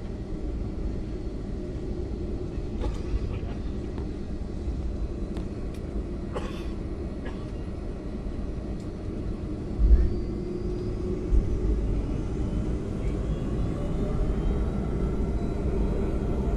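Steady low rumble inside an airliner cabin as the plane taxis after landing, with a few faint clicks. A low thump comes about ten seconds in and a smaller one a second or so later.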